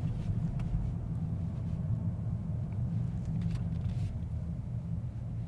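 Steady low rumble of a Mercedes-AMG S63 E Performance in motion, heard from inside its cabin, with a faint tone that falls slightly.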